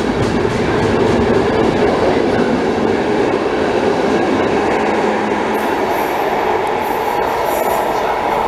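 Trenitalia passenger coaches rolling along the platform, a steady loud rumble of steel wheels on rail as the train draws away.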